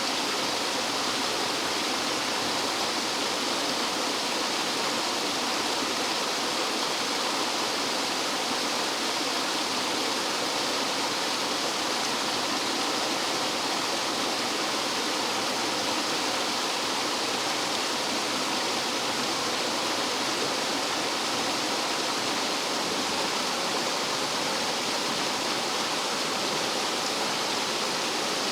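Rough mountain-stream water tumbling and falling like a small waterfall: a steady, unbroken rush and splash with no pauses.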